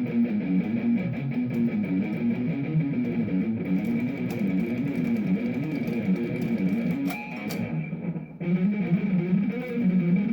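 Electric guitar playing a fast single-string picking exercise: quick runs of picked notes going up and back down on one string. The notes break off briefly about three quarters of the way through, then start again.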